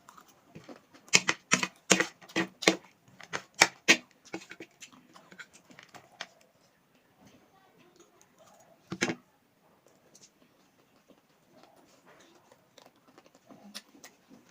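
Close-up eating sounds: a quick run of sharp clicks and crunches for about three seconds, then one louder short sound near the middle and faint scattered ticks.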